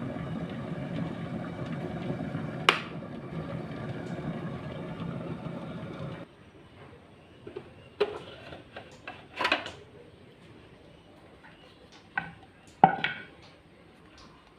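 A small electric motor runs steadily for about six seconds, then cuts off suddenly; several sharp clinks and knocks of kitchenware follow.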